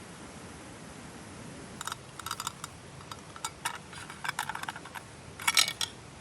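A run of irregular small clicks and crackles, as of objects being handled, starting about two seconds in, with the loudest cluster near the end.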